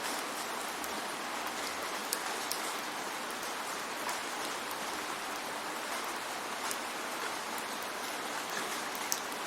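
Steady rain falling, an even hiss with scattered sharp drop ticks on a surface.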